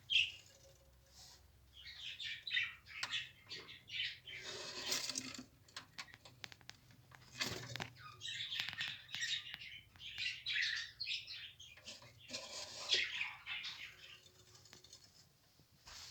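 Lovebirds chirping and twittering in repeated bursts of high, rapid chirps with short pauses between them, with scattered sharp clicks around the middle.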